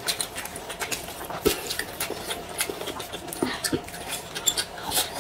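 Close-up mouth sounds of eating: chewing and lip-smacking on soft pancake wraps with filling, heard as a run of irregular wet clicks and smacks.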